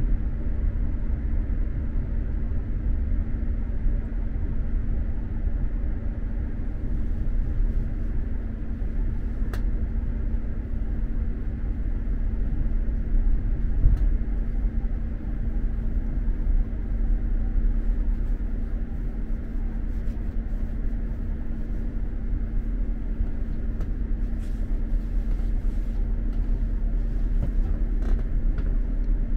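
Running noise inside an X2000 high-speed train carriage: a steady low rumble of the wheels on the track with a constant hum, and a couple of faint clicks.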